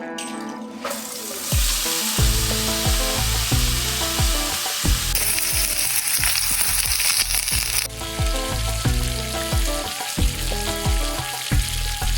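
Ribeye steak sizzling on a hot iron griddle plate. The sizzle starts about a second and a half in and is loudest and brightest for a few seconds in the middle.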